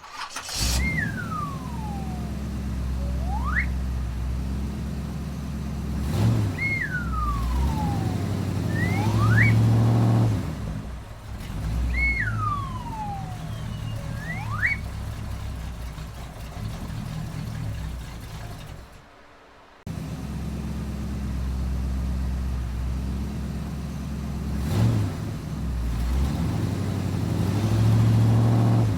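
A steady low engine hum that swells and fades a few times. In the first half, three high whistling swoops each fall and then rise again. Just before the middle the sound drops out for about a second, then the engine hum starts again.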